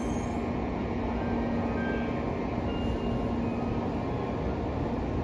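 A Tokaido Shinkansen train standing at the platform, its onboard equipment giving a steady hum over an even rush of station noise.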